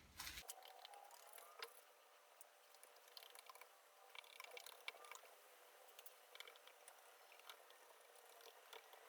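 Near silence: faint room tone with a few scattered soft clicks and light scrapes.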